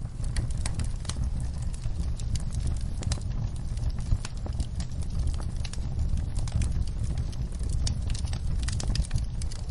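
Campfire burning, wood crackling with frequent sharp pops over a steady low rumble.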